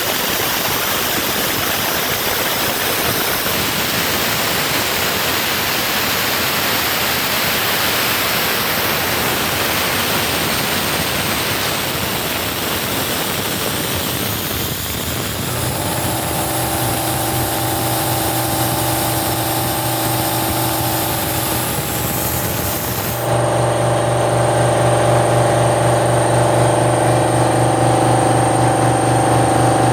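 CNC plasma cutter running: a steady, loud hiss from the cutting arc and air. About halfway through, a steady machine hum with several fixed tones comes in. About three quarters through, the hiss cuts off suddenly and the hum gets louder.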